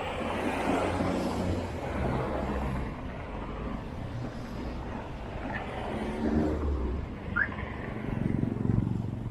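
Road traffic: motor vehicles running and passing, heard as a low, swelling and fading noise, with a brief high squeak about two-thirds of the way through.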